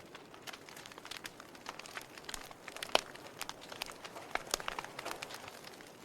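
Logs burning in a fireplace, crackling with irregular sharp pops over a soft hiss. The loudest pop comes about three seconds in.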